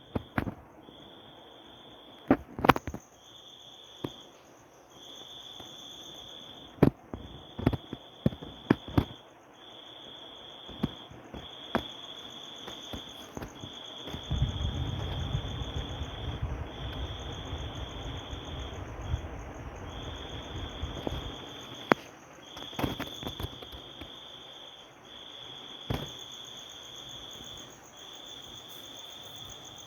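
A high, thin trill, like an insect's, repeating in pulses of about a second with short gaps, over scattered sharp clicks and knocks; a low rumble comes in about halfway through and stops about seven seconds later.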